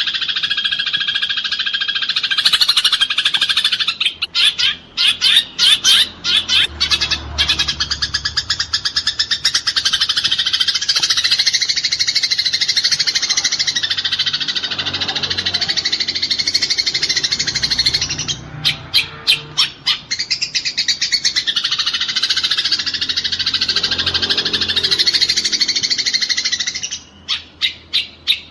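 Eurasian tree sparrows chattering in a dense, rapid stream of chirps, the agitated calls of sparrows fighting. Several times the stream breaks into short runs of separate quick chirps.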